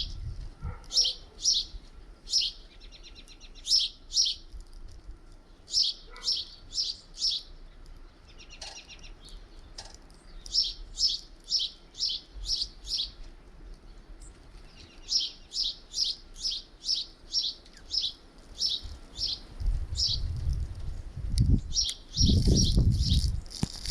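Small songbirds at a feeder chirping: runs of short, high chirps, about three or four a second, with a buzzy trill a few seconds in. A low rumble comes in near the end.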